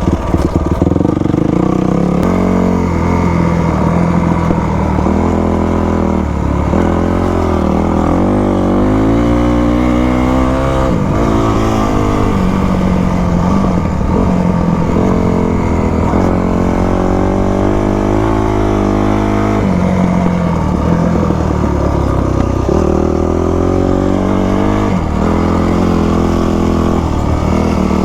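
2000 Yamaha YZ250 two-stroke single-cylinder dirt bike engine under way, its pitch climbing and falling again and again as the throttle is opened and closed.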